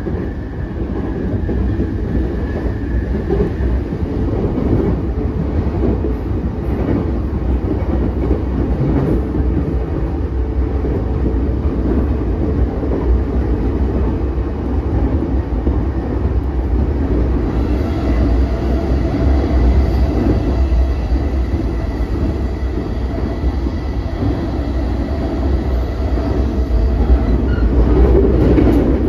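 Interior running noise of a JR East E233-5000 series electric train at speed: a steady low rumble of wheels and bogies on the rails. Faint high steady tones join in about 17 seconds in, and the noise swells slightly near the end.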